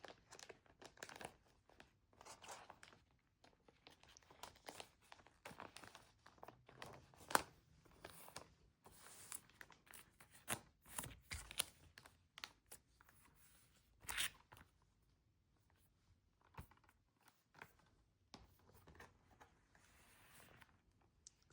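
Plastic shrink-wrap being torn and crinkled off a packaged CD album, heard as quick irregular crackles with a few louder rips, the loudest about seven seconds in and again about fourteen seconds in.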